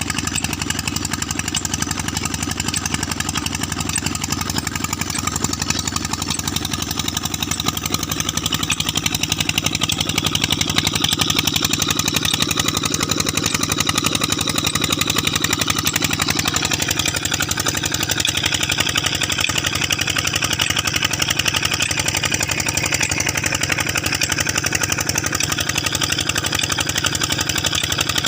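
Peter 20 HP stationary diesel engine, model SD115, running steadily with an even, rapid firing beat as it powers a tube well.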